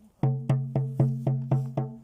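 A drum beaten in a steady, even rhythm of about four strikes a second, each stroke ringing with a low tone, starting about a quarter second in.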